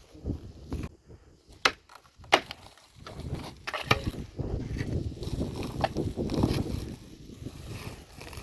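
Wood being handled and broken: a few sharp cracks, the loudest about two seconds in, over low, uneven rustling and knocking.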